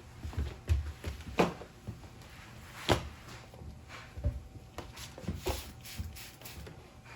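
Irregular household knocks and clunks, about a dozen over several seconds, like objects being handled and set down. The sharpest two come about one and a half and three seconds in.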